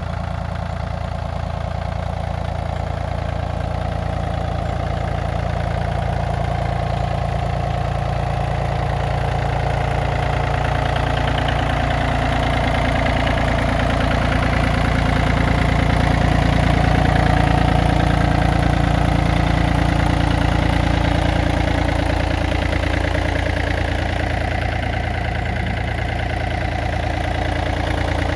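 Yanmar F215D compact tractor's three-cylinder diesel engine running steadily, swelling a little louder towards the middle and easing off again later.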